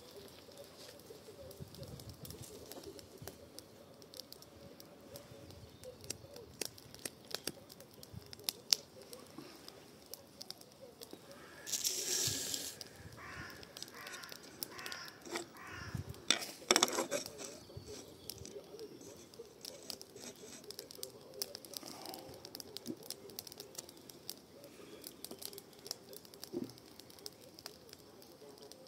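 Garden fire of pruned shrub cuttings crackling in a fire bowl, with many small sharp pops. A short hiss comes about twelve seconds in and a few louder knocks follow a few seconds later.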